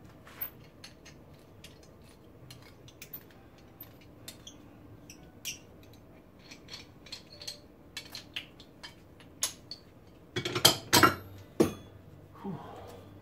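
Hand tools and small steel suspension parts being handled on a workbench: scattered light metallic clicks and clinks, then a louder clatter of metal pieces about ten seconds in.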